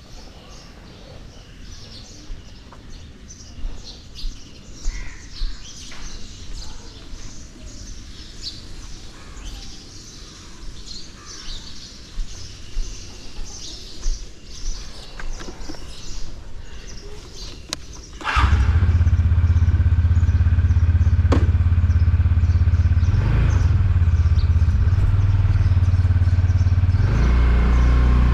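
Birds chirping, then about eighteen seconds in a motorcycle engine starts suddenly and keeps running steadily, much louder than the birds.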